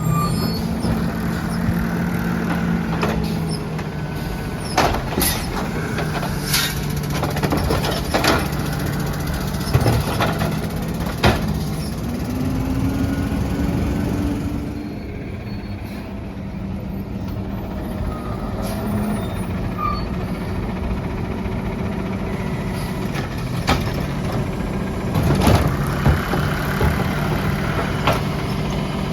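Peterbilt 320 garbage truck running, its engine humming steadily with a rise in pitch about twelve seconds in, and many sharp knocks and clanks throughout.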